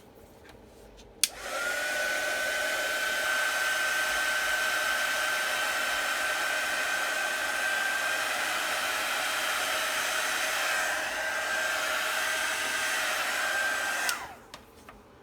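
Handheld hair dryer switched on with a click about a second in, blowing steadily with a hiss of air and a steady motor whine, drying freshly applied chalk paste; it clicks off about a second before the end and its whine falls away as it winds down.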